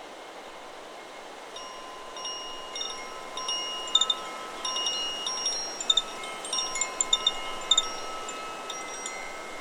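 Chakra Chimes 'Solar Plexus' wind chime ringing in the wind. About a second and a half in, its tubes start being struck in quick, irregular succession, the notes ringing on and overlapping, over a steady rush of wind through the trees.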